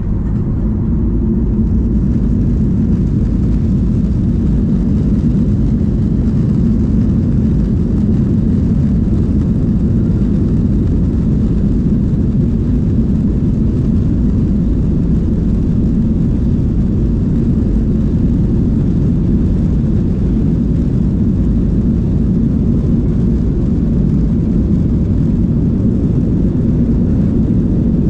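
Inside the cabin of a Boeing 737-800: a steady, loud low rumble of the CFM56 jet engines and airflow, with a little more hiss coming in about a second and a half in.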